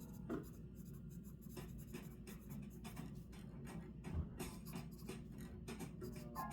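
Handwriting on paper: irregular scratching pen strokes, with a soft low bump about four seconds in.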